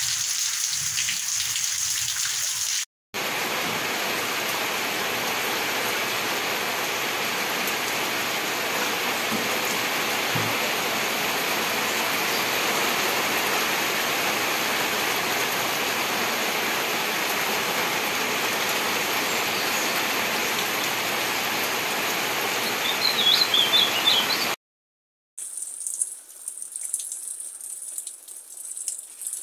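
Heavy rain pouring down steadily, a dense even hiss, cut off twice by brief silences, with the last stretch quieter. A few short high chirps sound shortly before the second break.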